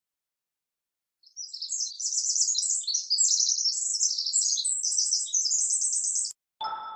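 Small songbird chirping and twittering in fast, high, tumbling phrases for about five seconds, starting a second in after total silence. Near the end a single bell-like ding sounds and rings away.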